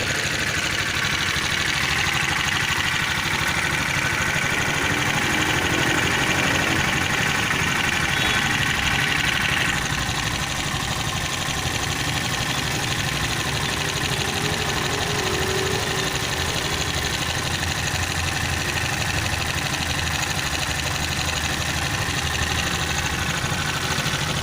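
Freshly rebuilt liquid-cooled Viar engine idling steadily after reassembly. Its upper clatter eases slightly about ten seconds in.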